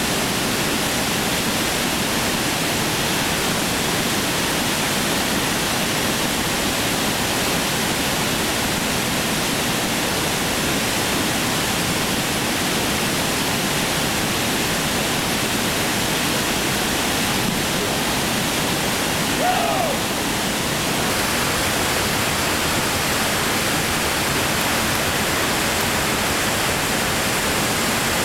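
Whitewater creek rushing over rapids and falls: a steady, even roar of water.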